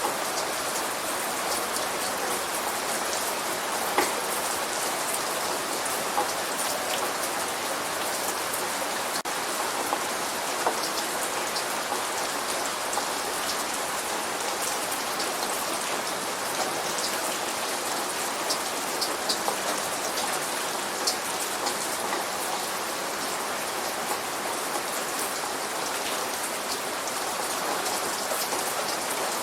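Steady light rain falling, an even hiss with scattered individual drops ticking close by.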